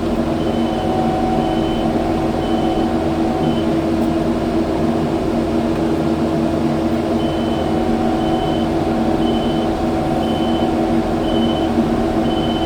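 Kubota skid steer's diesel engine running steadily under work. A high beep repeats about twice a second, stops for a few seconds in the middle, then starts again.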